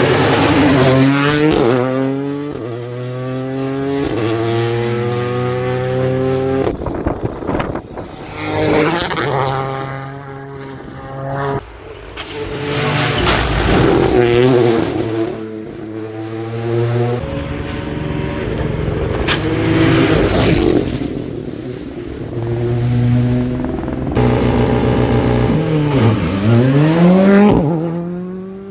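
Rally cars at speed on a tarmac stage: engines revving hard and rising in pitch through each gear, dropping abruptly at every shift, and falling steeply as a car brakes and passes near the end.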